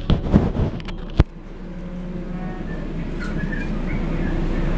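Light-rail train running, heard from inside the passenger car: steady motor and rolling noise growing louder as it gathers speed. A few sharp knocks come in the first second.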